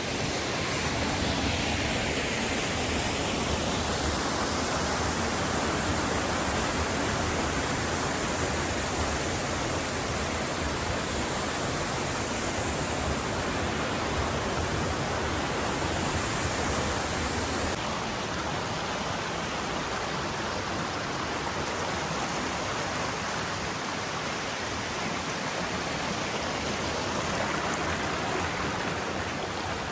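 Waterfall: a steady rush of falling water filling the whole sound. The sound shifts abruptly and drops slightly about eighteen seconds in.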